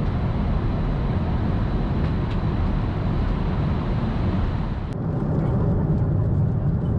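Steady roar of engine and airflow noise inside the cabin of a Boeing 747-8 in flight. About five seconds in it cuts abruptly to a duller, lower cabin drone with faint clicks.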